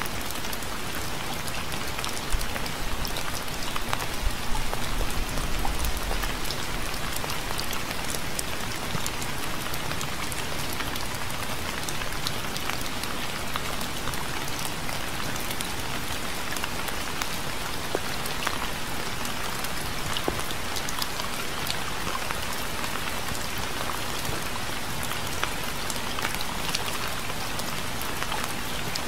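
Steady rain falling, a dense patter of individual drops over an even hiss. A brief low rumble sits under it a few seconds in.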